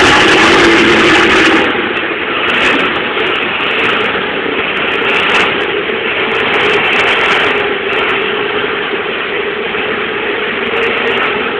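Porsche 997 Cup car's flat-six racing engine running at idle after a cold start. It is louder for about the first two seconds, then settles to a steady, even idle.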